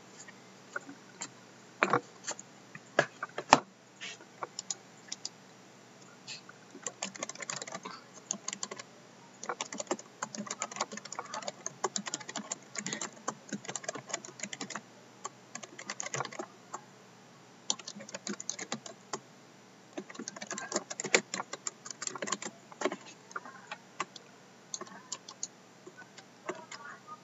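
Typing on a computer keyboard in runs of quick keystrokes with short pauses, and a few separate single clicks in the first seconds: team names being entered into an online list randomizer.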